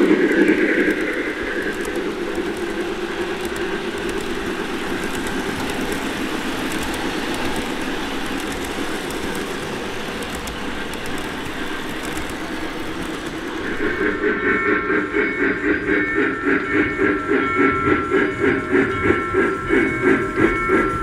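O gauge model steam locomotive running on track, with a steady rolling rumble. About fourteen seconds in, a pulsing sound of two or three beats a second starts, carrying steady pitched tones from the engine's onboard sound system.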